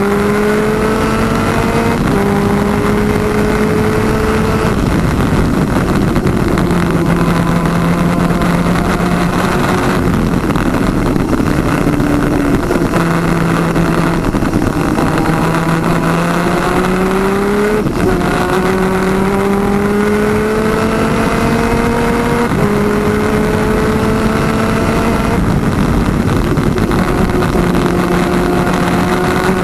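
Onboard sound of a PVP twin 250cc two-stroke superkart engine at race speed, its pitch climbing through each gear and dropping back at each shift every few seconds, with a few longer stretches held at a lower steady note. Heavy wind noise on the microphone underneath.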